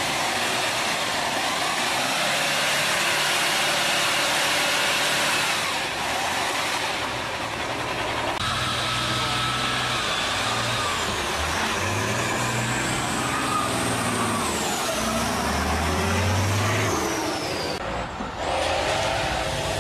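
Big off-road diesel trucks' engines running and revving, the engine pitch rising and falling under heavy rushing noise. The sound changes abruptly a few times from one shot to the next.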